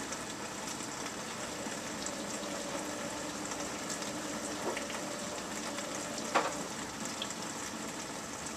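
Bosch Exxcel dishwasher in its wash phase: water spraying and splashing inside the closed tub over a low, steady circulation-pump hum, quiet overall. A single small click about six and a half seconds in.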